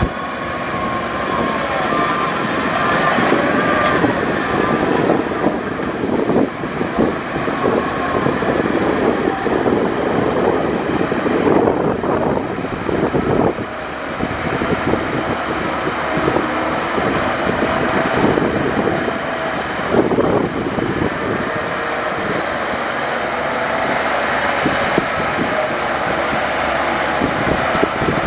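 Heavy earthmoving machinery at work, with a diesel engine running continuously. Frequent metallic clanks and faint squeals run through it.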